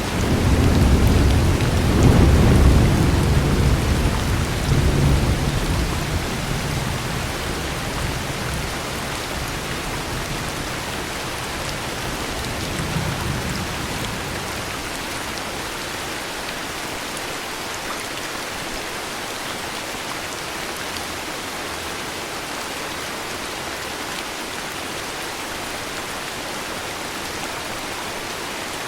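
Steady heavy rain falling, with a long rolling thunder rumble at the start that peaks after a couple of seconds and dies away over several seconds, then a faint short rumble about halfway through.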